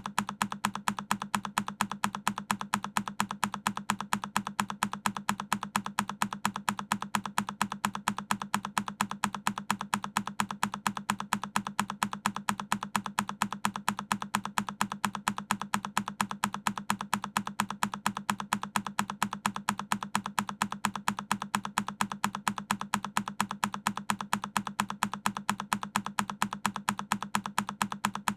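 A single key press on a Keychron K10 mechanical keyboard, repeated as a loop: the same sharp click recurs at an even, rapid pace, several times a second.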